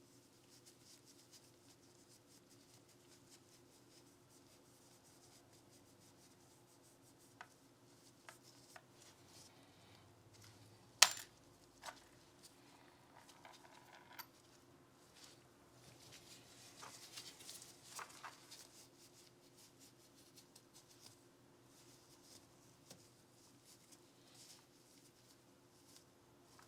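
Small parts of a Glock 19 pistol being handled during cleaning and trigger work: scattered light clicks, one sharp click about eleven seconds in, and a spell of rubbing and scraping a few seconds later.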